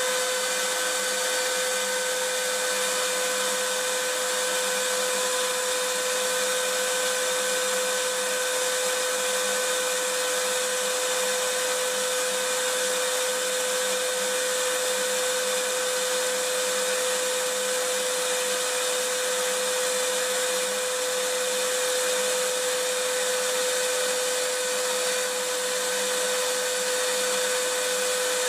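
Vacuum cleaner running continuously with a steady hiss and a constant motor whine, no change in pitch or level.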